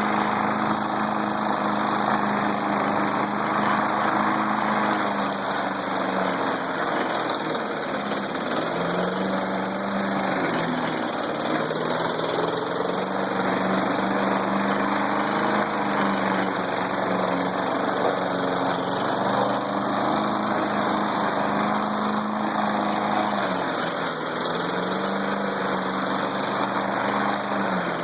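Tecumseh engine of an old Craftsman push mower running steadily on muddy, watery waste gas cut with tiki torch oil, its speed sagging and picking back up a few times. The owner says the low-octane mix made it ping with moderate detonation but that it still ran pretty well.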